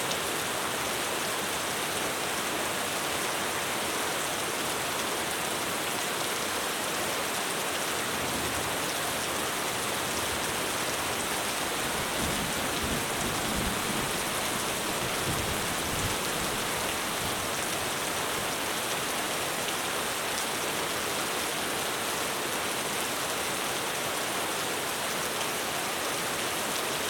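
Heavy rain falling steadily on a roof, a dense even hiss of drops. About a third of the way in, a low rumble of distant thunder swells under it for several seconds and fades.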